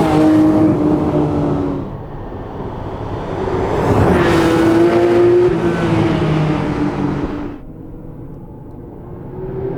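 Porsche 911 R's naturally aspirated 4.0-litre flat-six engine pulling hard under throttle. It eases off about two seconds in, swells again about four seconds in, and drops away sharply near the end.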